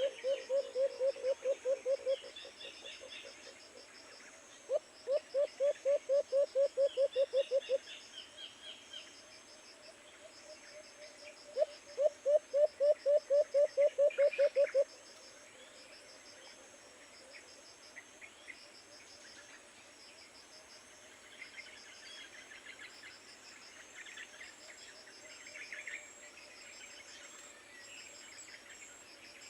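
A dove's low cooing call, given as three bouts of quick pulses about five a second, each bout two to three seconds long. Under it run a steady cricket and insect trill and a few faint bird chirps.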